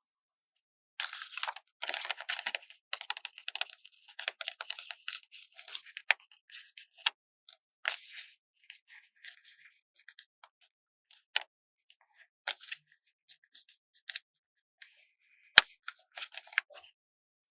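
Paper stickers being peeled from their backing sheet and handled close to the microphone. A run of crisp crackling for the first several seconds, then scattered light clicks and taps, with one sharper click near the end.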